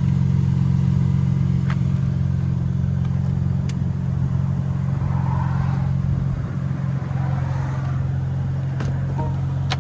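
BMW M4 CS's twin-turbo inline-six idling steadily, with a few light clicks over it.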